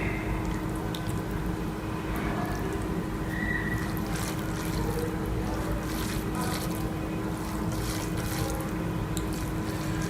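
Wet clicks and smacks of someone eating rice and egg curry, growing busier from a few seconds in, over a steady low hum with a faint constant tone.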